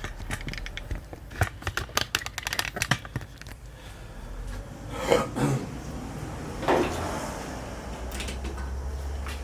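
Clicks and clatter of tools and gear being handled, with a couple of louder knocks midway. A steady low hum starts near the end.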